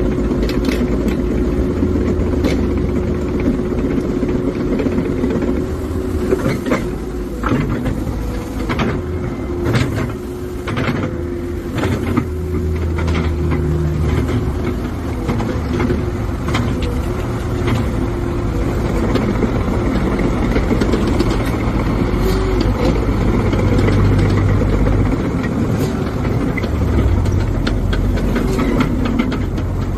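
Caterpillar 314D excavator's four-cylinder diesel engine running steadily, with a constant thin high tone over the rumble and a run of sharp metallic knocks, thickest in the first half.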